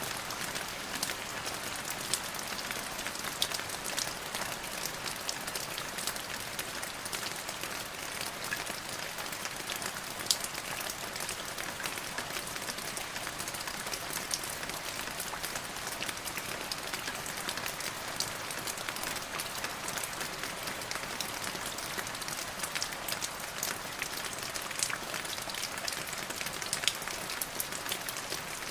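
Steady rain falling on a surface, a continuous hiss sprinkled with the sharp ticks of individual drops.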